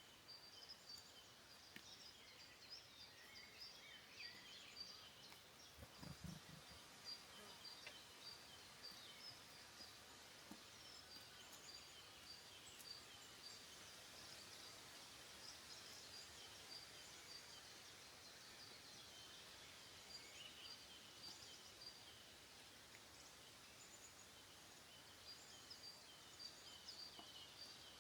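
Faint woodland birdsong: many small birds calling at once, a dense run of short, high chirps and call notes. A soft low thump about six seconds in.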